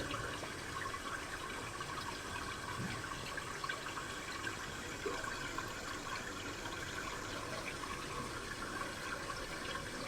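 River babbling: a steady murmur of flowing water.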